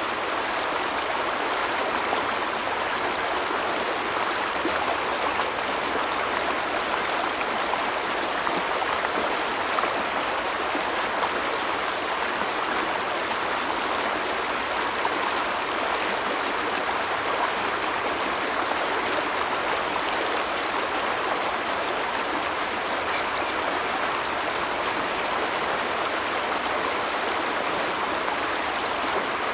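Stream water flowing in a steady, even rush, with a faint steady high-pitched tone running above it.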